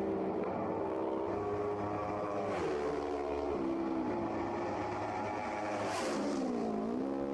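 Racing motorcycle engine at high revs, its pitch stepping down twice a little before the middle at gear changes, then dipping and climbing again near the end as it slows and accelerates once more.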